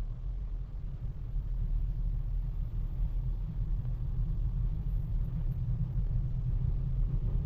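Low, steady rumble of a freight train passing close by, building up over the first couple of seconds and then holding.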